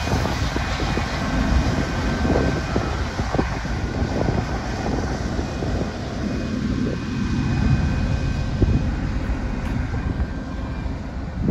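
Coal train passing and drawing away behind an Aurizon 5020-class diesel-electric locomotive: a steady low rumble from the locomotive and loaded wagons, with scattered knocks as the wheels run over the rail joints.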